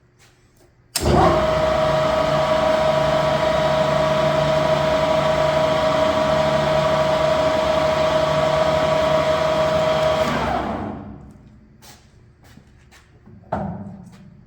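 A Standard Modern 1640 tool room lathe starts up about a second in and runs its spindle at 640 rpm with a steady whine. It runs down and stops about ten seconds in, and a few knocks follow near the end.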